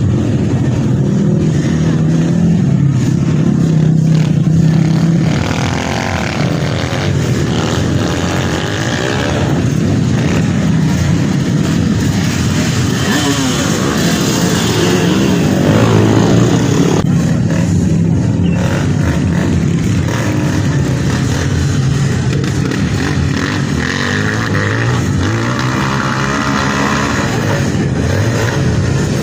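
Dirt bike engines revving up and down as the bikes are ridden, the pitch rising and falling repeatedly.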